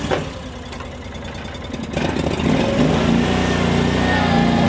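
Baumalight mini dumper's small engine running just after starting, at a lower speed at first, then revving up about two seconds in and holding steady at a higher speed.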